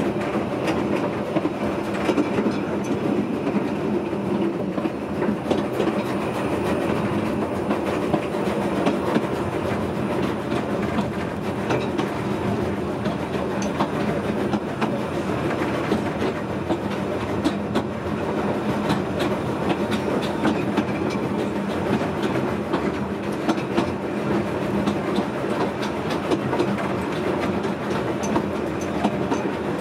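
Narrow-gauge steam-hauled train running along the line, heard from inside the carriage coupled to the locomotive: a steady rumble and rattle with frequent small clicks from the wheels and running gear.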